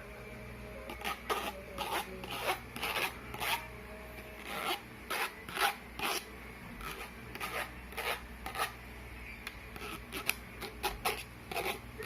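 Spoon scraping against dishware in short, irregular strokes, several a second in bursts, as thick whipped dalgona coffee foam is scooped and moved.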